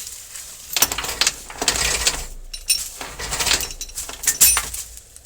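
Steel chain rattling and clinking as its links are handled and dragged, in irregular bursts of metallic clanks.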